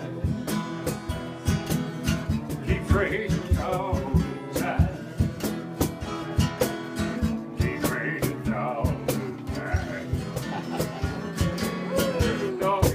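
Acoustic guitar music: steady picked notes with a bending, wavering lead melody line coming in every few seconds.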